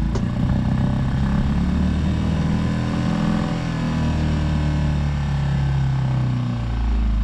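Hurley 20 sailboat's small engine, just started on choke, running unevenly with its revs rising and falling.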